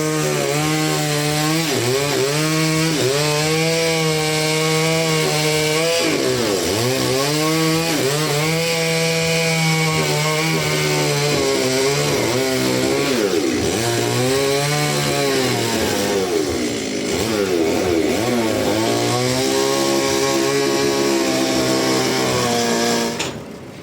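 Petrol chainsaw cutting through a large trembesi (rain tree) log. The engine's pitch repeatedly sags as it bogs under the load of the cut and picks back up, then it stops abruptly near the end.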